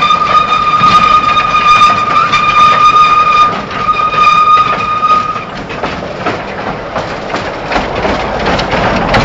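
Narrow-gauge train running, with a steady high-pitched squeal over the rumble of the wagons. The squeal breaks off briefly about three and a half seconds in and stops about five and a half seconds in, leaving the rumble and clatter.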